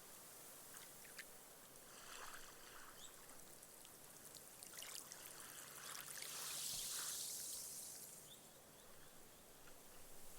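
Small, gentle waves washing up a sand beach. One wave's wash swells into a soft hiss about six seconds in and fades away, with faint fizzing and crackling as the foam soaks into the sand.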